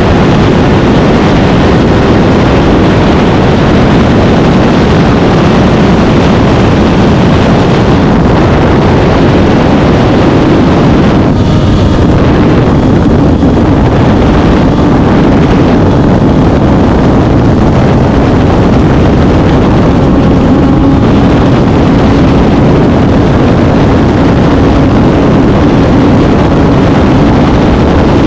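Suzuki GSX-R1000 K8's 999 cc inline-four engine running steadily while the bike cruises, mixed with a loud, steady rush of wind on the microphone.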